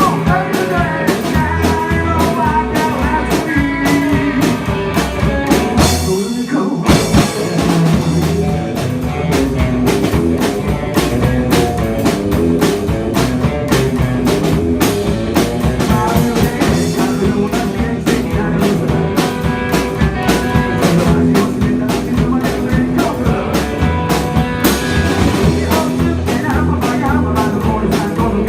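Rock music with guitar and drums keeping a steady beat; the bass and drums drop out briefly about six seconds in, then the band comes back in.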